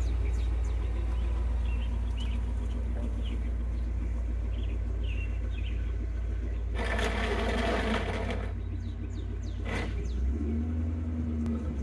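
C5 Corvette Z06's LS6 V8 idling with a steady low exhaust rumble as the car creeps backward down a driveway. A rush of noise about seven seconds in lasts a second and a half.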